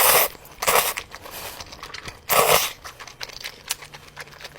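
Close-miked ASMR sounds of sausages being handled and eaten: crisp tearing and crinkling, in three loud bursts at the start, under a second in and about two and a half seconds in, with small clicks between.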